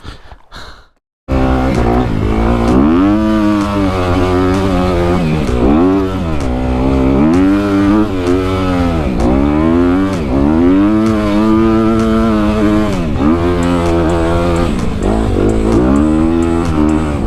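Dirt bike engine, a Honda CRF250 four-stroke, revved up and down over and over while riding, its pitch climbing and dropping every second or two. It comes in suddenly about a second in.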